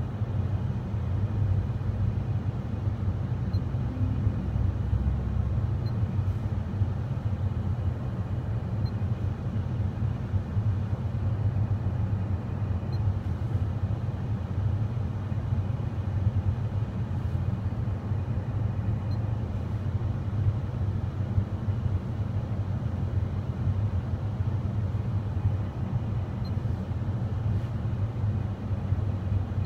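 Car engine idling, a steady low rumble heard inside the stationary car's cabin.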